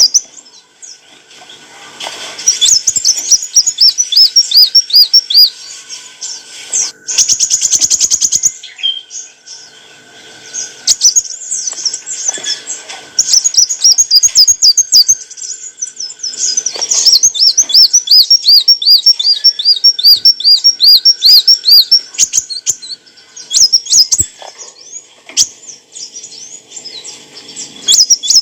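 Sunbird (kolibri wulung) singing: runs of quick, high, thin repeated notes that last a few seconds each, with short pauses between them and a brief buzzy trill about seven seconds in.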